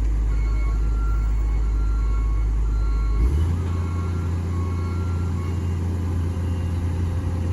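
Heavy diesel engine running steadily, its speed stepping up and holding higher about three seconds in. Faint repeating beeps sound over it through the first part.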